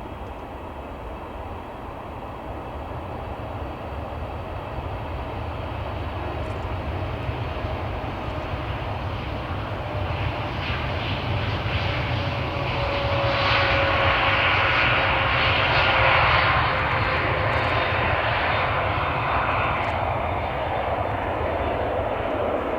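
Jet airliner's engines passing close. The sound grows steadily louder to a peak about two-thirds of the way through, then eases off a little. Through the loudest part a whine slowly falls in pitch.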